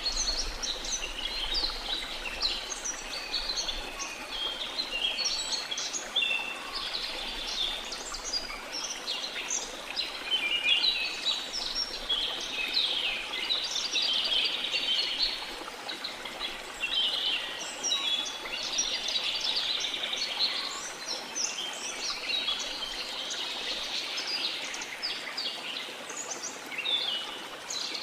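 A chorus of many birds chirping and singing continuously, with short overlapping calls and trills, over a steady rush of water from a waterfall.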